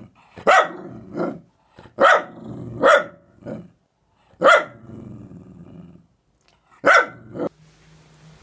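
A small dog barking about seven times in sharp bursts, with low growling between the barks.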